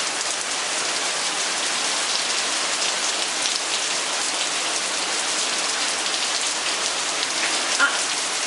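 Heavy rain pouring down, a steady dense hiss of drops hitting the ground and surroundings.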